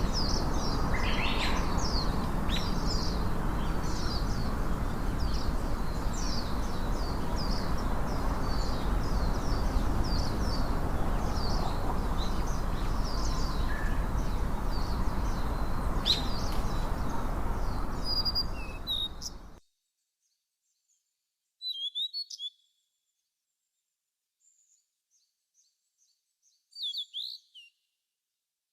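Songbirds chirping in a busy chorus of short high calls over a steady rushing background noise. About two-thirds of the way through, the background fades out quickly, and after that only two brief bursts of calls break the near silence.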